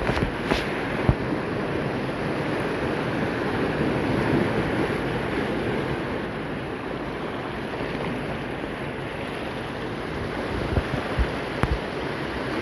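Heavy sea swell surging and breaking on the shore, a steady rushing noise, with wind on the microphone and a few short low thumps.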